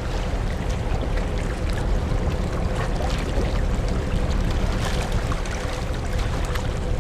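Hankyu Ferry's large car ferry New Akashi under way, a steady low rumble with a rushing wash of water and a faint steady hum running through it.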